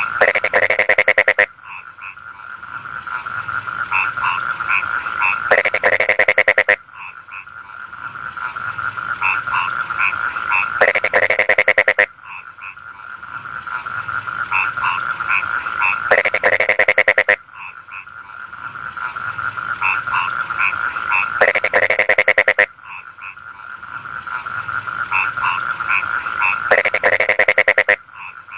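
Rice-field frogs calling: a steady chorus under short repeated croaks, and about every five seconds a loud croak made of rapid pulses lasting about a second.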